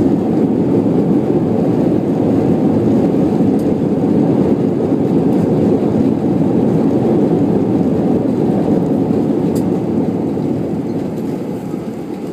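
Loud, steady rumble inside the cabin of an Airbus A320 airliner during its landing roll, from the engines and the wheels on the runway. It eases off gradually over the last few seconds as the aircraft slows.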